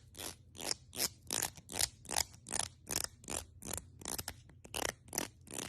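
A steady run of short scraping strokes, about three a second.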